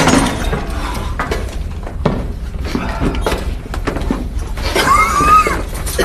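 Submarine interior ambience in a film soundtrack: a steady low rumble with scattered metallic clicks and knocks, and a short wavering high squeak about five seconds in.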